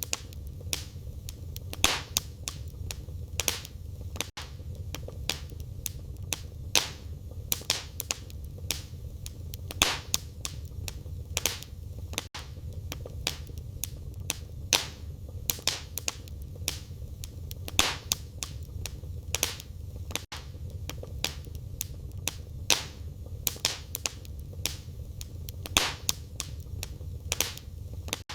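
Wood fire burning in a fireplace: a steady low rumble of flame under frequent irregular pops and crackles from the burning firewood.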